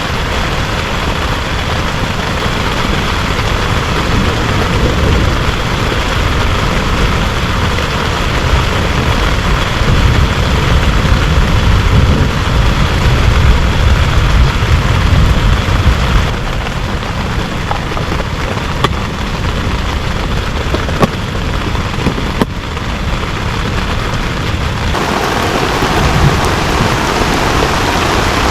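Heavy rain falling steadily, with a low rumble that swells through the first half and dies away about halfway. A few sharp taps come in the second half, and the rain's sound changes abruptly near the end.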